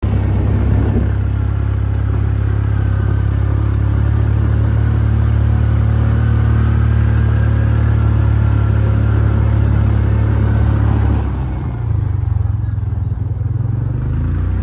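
A motor vehicle's engine running steadily, with a change in its sound about eleven seconds in.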